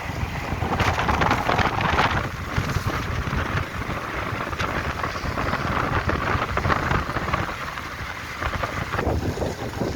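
Wind and rain rushing over the microphone while travelling by road in monsoon rain: a steady low rumble with gusts of hiss, loudest about a second in.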